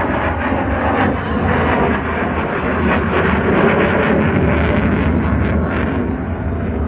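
Military aircraft flying past during an air-show display: a loud, steady rumble of engine noise.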